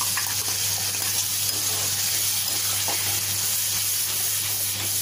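Tomato, ginger and green chilli paste sizzling in hot oil in a kadhai as it is poured over the fried onion masala, then stirred with a spatula. The steady hiss goes on throughout.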